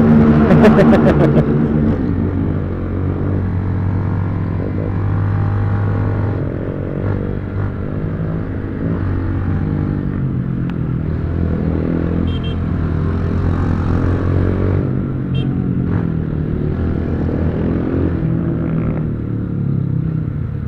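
Honda XRE single-cylinder motorcycle engine running loud through an aftermarket exhaust while riding. Its note rises and falls with the throttle, loudest in a rev at the start.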